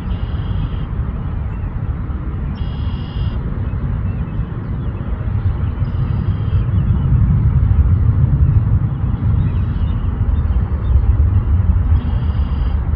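Steady low outdoor rumble with four brief, high-pitched calls over it, about three seconds apart.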